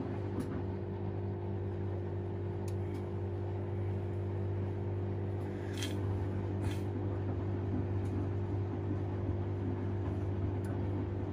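Washing machine running with a steady, even motor hum, with two short, sharp noises a little past the middle.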